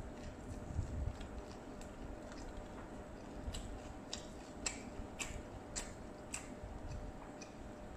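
A person chewing food close to the microphone: wet mouth clicks and smacks in a steady rhythm of almost two a second, sharpest from a few seconds in.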